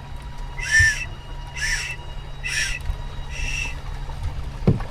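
A child's toy whistle blown four times: short, breathy, high-pitched toots about a second apart.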